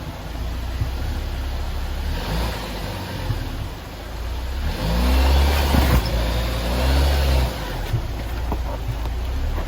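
Jeep Wrangler engine revving in surges under load as it crawls over a trail obstacle, with a steady low rumble. The revs climb and fall twice, loudest about halfway through.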